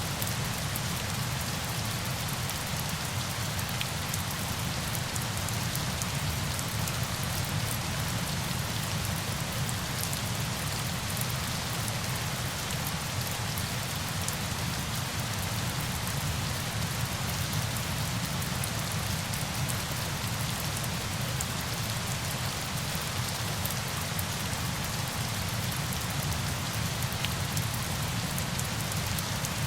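Steady rain falling on a surface: an even hiss with fine drop ticks over a low rumble, unchanging throughout.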